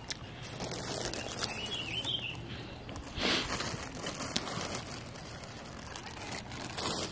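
A man eating close to the microphone: chewing with wet clicks and crinkly rustles, and a louder rustle about three seconds in.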